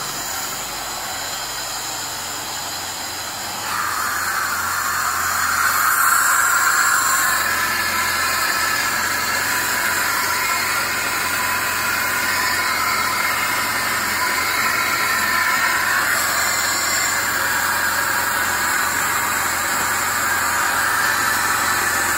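Moskvich 2140's newly fuel-injected engine running, under a steady hiss that grows louder about four seconds in.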